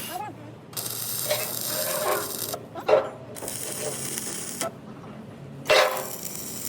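Metalworking sounds: three bursts of high hiss that switch on and off abruptly, with a few sharp metal clanks between them.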